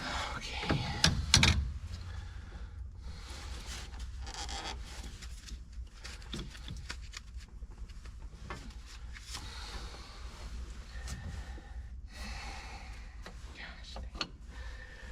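Parts and tools being handled during a tractor transmission teardown: a few sharp knocks about a second in, then scattered clicks and rubbing and scraping, over a steady low hum.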